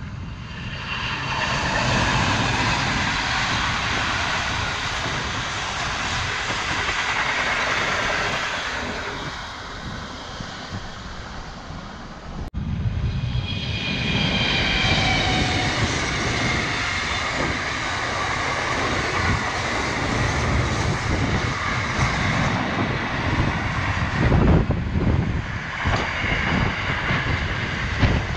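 An NR class diesel-electric locomotive hauling passenger cars passes with its engine running and wheels rolling on the rails. About halfway through, the sound cuts to a second NR class locomotive pulling a long freight train, its engine passing and then its flat wagons rolling by with knocks from the wheels.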